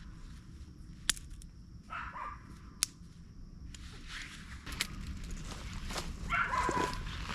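A few short animal calls, one about two seconds in and a longer run near the end, with two sharp clicks in between over a steady low background.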